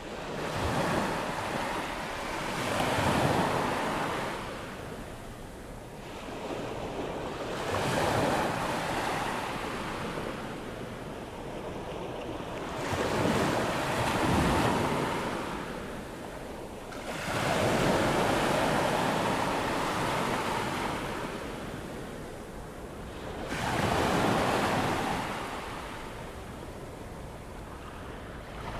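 Ocean waves breaking and washing up a sandy beach on an incoming tide. Each wave rises to a rush and fades back, one every four to five seconds.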